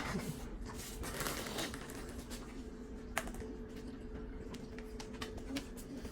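Tibetan Mastiff chewing Cheetos: irregular crisp crunches, with one sharper crack about three seconds in.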